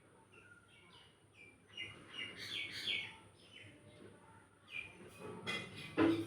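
Small birds chirping over and over in short, falling chirps, with a single sharp knock near the end.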